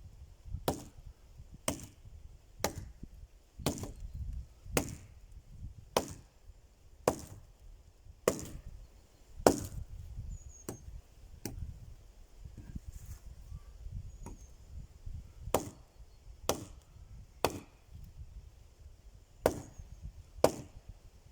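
Axe chopping wood: sharp blows about once a second, with a pause of a few seconds in the middle.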